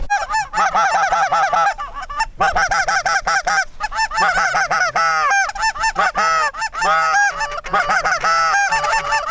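Geese honking: a dense run of many overlapping calls, hardly breaking.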